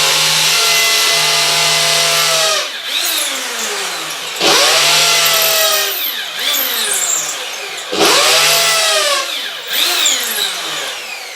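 Electric hammer drill in hammer mode, boring a 5 mm pilot hole into a wall. It runs in three bursts of one to three seconds, and the motor's whine falls away after each as the trigger is let off. A brief blip of the motor comes near the end.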